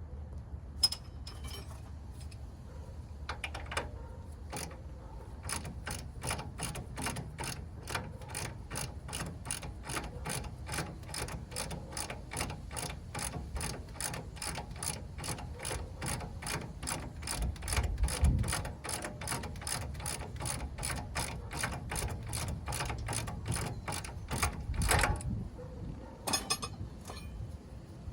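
A hand ratchet wrench clicking steadily, about two to three clicks a second, for most of the time. Two heavy low thumps come about two-thirds of the way through and again near the end.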